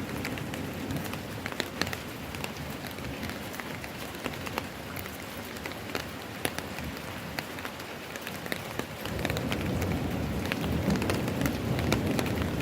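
Rain falling, a steady hiss with many scattered sharp drop ticks. About nine seconds in, a low rumble comes in and the sound grows louder.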